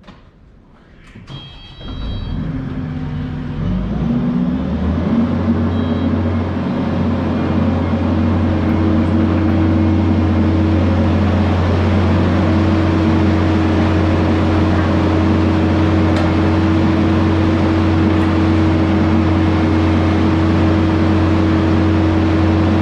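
Kubota skid steer's diesel engine starting after a short beep, revving up, then running steadily at high speed.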